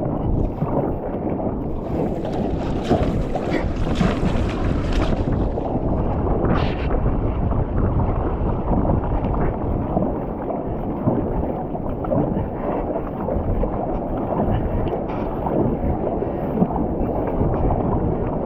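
Wind buffeting the microphone and water rushing around a kayak as it heads in through the surf, with louder splashing about two to five seconds in and a brief splash near seven seconds.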